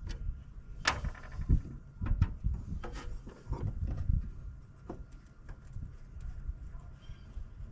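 Irregular clinks, knocks and rubbing of hand tools and metal parts as a tractor dash is taken apart, with a sharp ringing metal clink about a second in and low thumps throughout.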